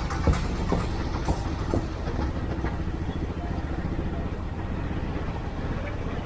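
Steady low rumble of a moving vehicle, with a few short clicks and knocks in the first two seconds.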